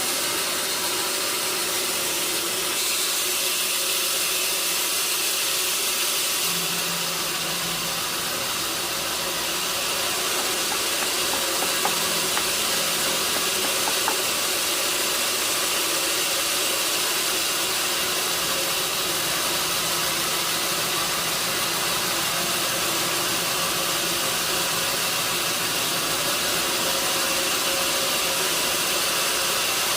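Sawmill machinery running steadily: a constant hiss over a steady hum, with two faint ticks about halfway through.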